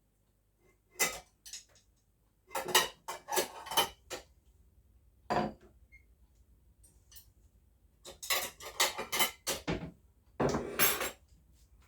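Dishes and cutlery clinking and clattering in several short bursts as food is dished out for a meal.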